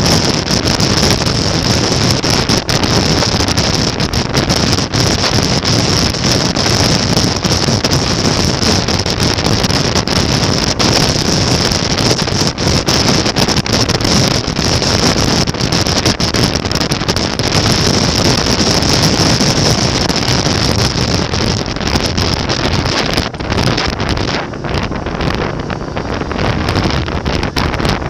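Heavy wind buffeting the microphone while riding on a motorcycle, over the steady running of its engine. The rush eases slightly near the end.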